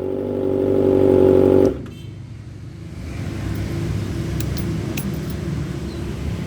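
Kawasaki ZX-25R's 250 cc inline-four exhaust note through an aftermarket Avionic muffler, held at steady revs. Under two seconds in it cuts off suddenly, leaving a lower rumble.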